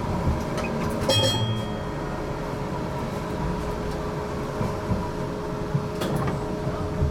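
Interior of a GTL8 articulated tram under way: steady rumble of wheels on rail with a constant electric whine from the traction equipment. A brief high-pitched squeal about a second in, and a few sharp knocks toward the end as the wheels cross rail joints or points.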